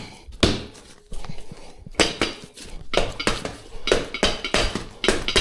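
Metal tyre levers knocking and clinking against the wheel rim as the tyre bead is levered back over it: a run of sharp clinks, sparse at first and quickening to about three a second in the second half.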